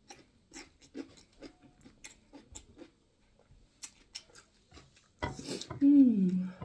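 Close-up eating sounds: chewing with many short, wet mouth clicks and smacks. Near the end comes a louder stretch of chewing and a falling "mmm" hum of enjoyment.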